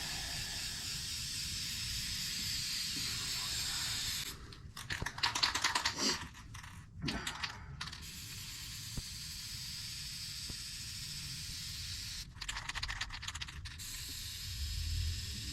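Aerosol can of PJ1 foam air filter oil spraying with a steady hiss. About four seconds in, and again near the end, the hiss gives way to a second or so of fast clicking rattle.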